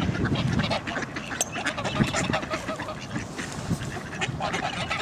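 A flock of ducks quacking, with many short calls overlapping one another.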